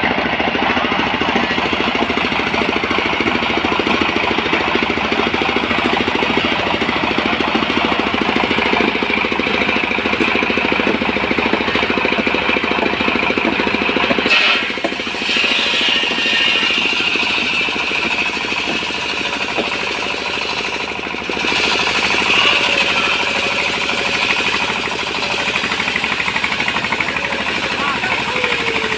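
Portable sawmill running at a logging site, a steady, loud machine sound with a fast rough pulse. It changes character about halfway through, when the low part drops away.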